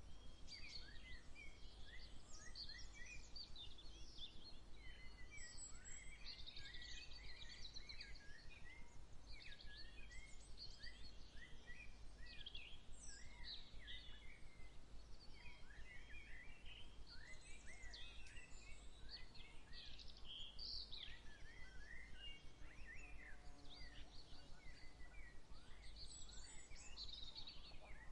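Early-morning birdsong: many birds chirping and twittering in short, overlapping calls, over a faint steady low rumble.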